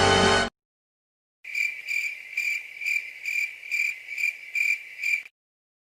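Crickets chirping, the stock 'awkward silence' gag sound effect: a steady run of high chirps, about two to three a second, starting about a second and a half in and stopping shortly before the end. Background music cuts off in the first half second.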